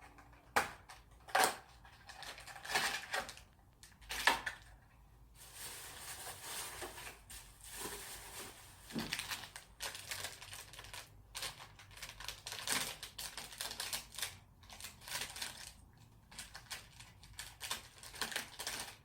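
Packaging of a strawberry Pepero snack being opened: a few sharp snaps of the cardboard box being torn open, then a long stretch of plastic wrapper crinkling and rustling as the inner packet is opened and handled.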